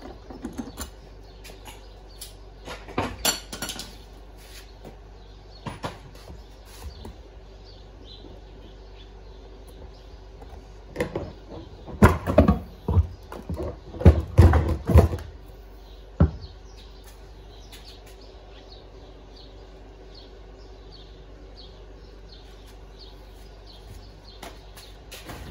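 Scattered knocks and clatter, with a louder run of heavy thumps about twelve to fifteen seconds in, over a low steady hum.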